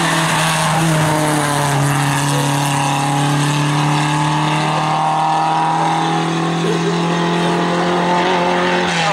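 Lada 2107 rally car's four-cylinder engine running hard at high revs under load, its note held nearly steady with small dips in pitch.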